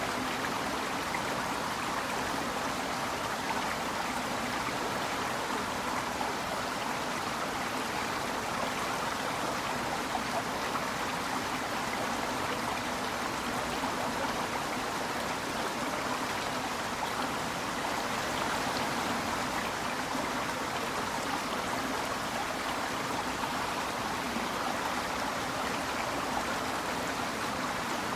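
Clear snowmelt mountain stream babbling steadily, an even rushing murmur of flowing water with no breaks.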